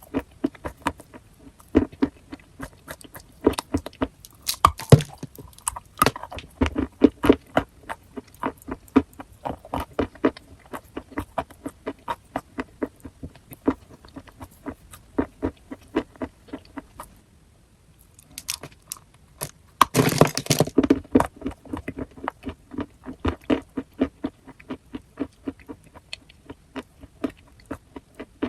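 Close-miked crunching and chewing of chalk: a quick run of sharp, dry crackles, with a short break a little past halfway and a dense burst of crunches just after it.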